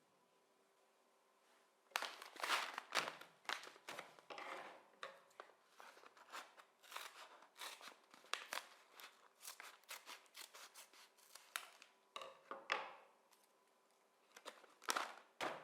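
Short, crisp snipping and rustling sounds in quick succession for about ten seconds, then two brief bursts near the end: packaging being cut open and handled.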